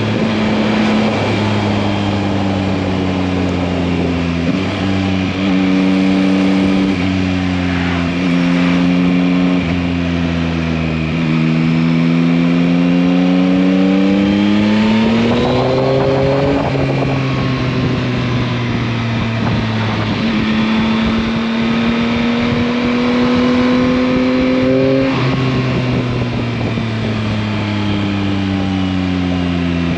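2021 Yamaha MT-09's 890 cc inline-three engine under way, revs climbing under throttle and dropping back in steps at gear changes several times, with the longest pulls about halfway through and again near the end.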